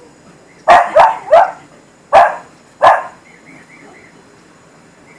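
A dog barking: three quick barks in a row about a second in, then two more single barks.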